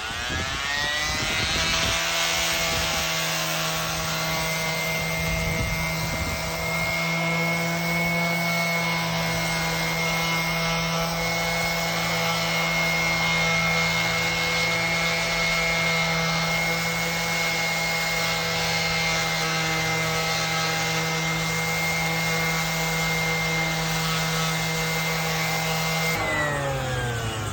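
Skil electric orbital sander sanding the seat face of a split pine log. It spins up over the first couple of seconds, runs steadily with the rasp of the pad on the wood, then switches off and winds down near the end.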